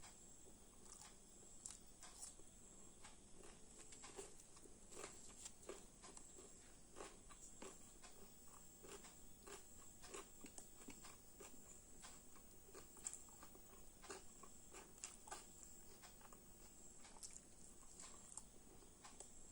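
Faint eating sounds: a person chewing luchi and chicken kosha, with many small irregular clicks and smacks of mouth, food and fingers. A steady faint high-pitched hiss runs underneath.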